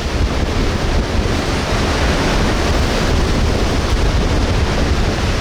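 Hurricane wind blasting the microphone: a loud, steady rushing noise with heavy low rumbling buffets.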